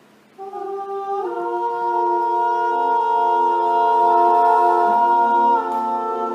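An all-male a cappella group singing sustained, wordless chords as the song's opening. The voices come in about half a second in, move to a new chord about a second in, and shift again near the end.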